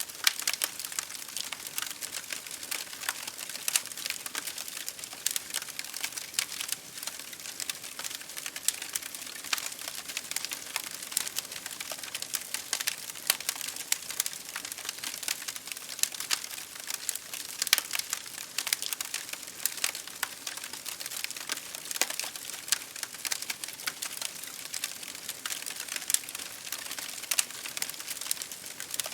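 Wood fire crackling in a fireplace, a dense run of irregular pops and snaps, over the steady patter of rain against a windowpane.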